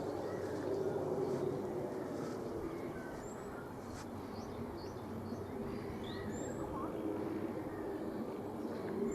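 Outdoor ambience: small birds chirping now and then over a steady low hum of distant traffic.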